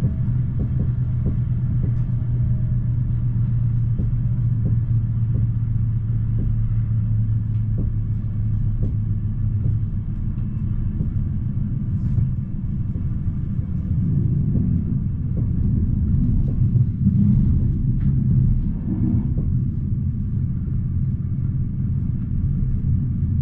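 Interior of an electric commuter train running along the track: a steady low rumble of wheels and running gear. A low hum drops away about ten seconds in, and light ticks come about twice a second in the first half.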